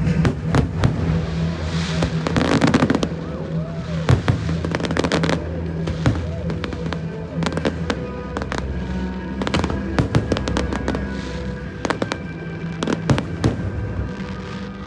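Aerial fireworks bursting in a dense run of sharp bangs and crackles, with the densest cluster about two to three seconds in, over music from loudspeakers.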